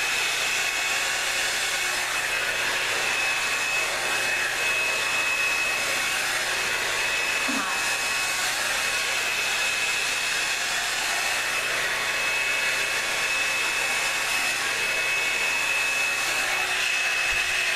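Revlon One-Step hot-air brush dryer running steadily: a steady rush of air with a high whine.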